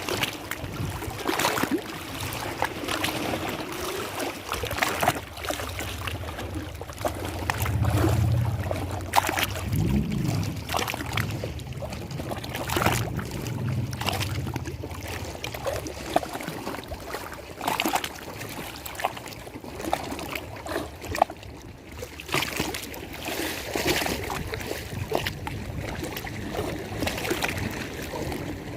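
Lake water lapping and splashing in choppy, uneven slaps, with a low rumble from about a quarter to halfway through.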